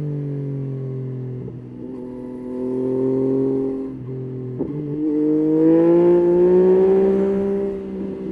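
Yamaha Tracer 9's 890 cc inline-three engine running on the move. The engine note falls as the bike slows, with short breaks in it, then rises steadily under acceleration from about halfway through, with another short break near the end.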